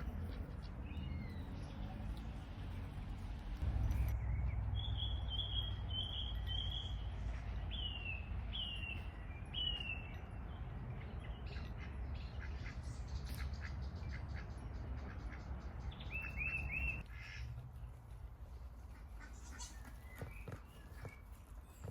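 A bird calling in a run of short, high, repeated chirps, then a quick cluster of three near the end, over a steady low rumble of outdoor background noise.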